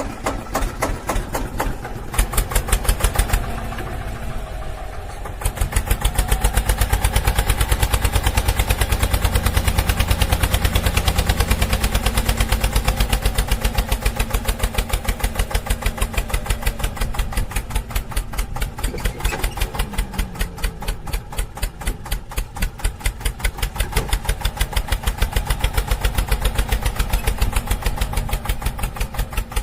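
Truck engine running with a rapid, even chug. It eases off briefly a few seconds in, then comes back louder and steady.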